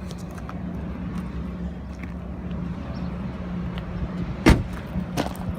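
A vehicle engine running steadily with a low hum, and two sharp knocks near the end, the first the loudest.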